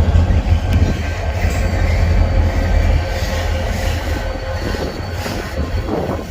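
Freight train rolling past at close range: a steady deep rumble of wheels on rail with a faint thin squeal from the wheels.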